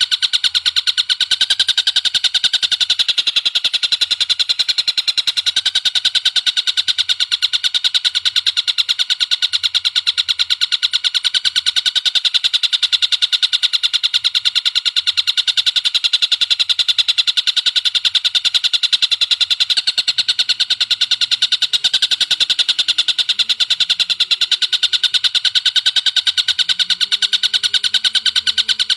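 Recorded bird song for bird training: a fast, unbroken trill of short high repeated notes that runs on without a pause.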